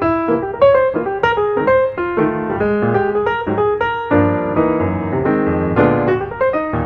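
Piano music: quick successions of struck notes, with fuller chords about four seconds in.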